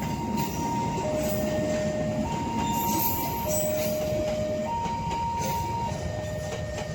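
Passenger train rolling past with steady wheel and rail noise. Over it a warning signal sounds two alternating steady tones, high then low, each held about a second, typical of a railway level-crossing alarm.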